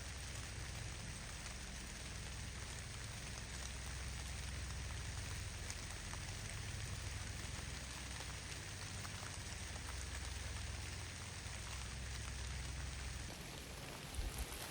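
Steady patter of falling snow, a fine even hiss dotted with tiny ticks, over a low rumble.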